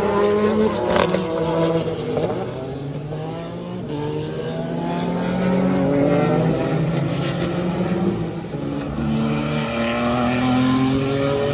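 Several historic sports-prototype race cars passing at speed, their engine notes rising and falling as they go by, with more than one engine heard at a time.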